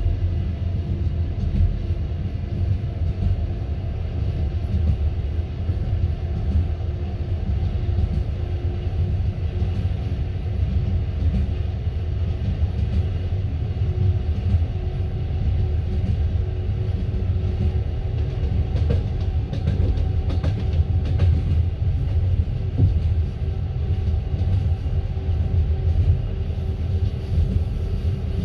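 Passenger train coach running along the line: a steady low rumble of wheels on rails, heard from inside the car, with scattered sharp clicks that bunch up about twenty seconds in.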